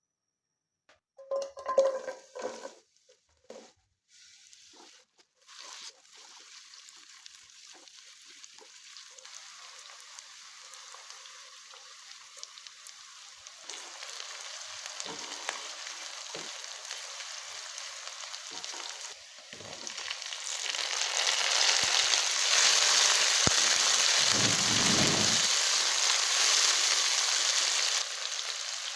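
Food sizzling in hot oil in a cooking pot, growing louder in steps as it goes, after a few knocks and clatters of utensils in the first seconds.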